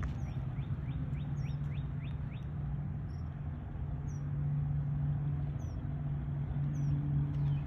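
Small birds chirping: a quick run of about ten short, falling chirps in the first two and a half seconds, then single short high calls about once a second. A steady low hum runs underneath.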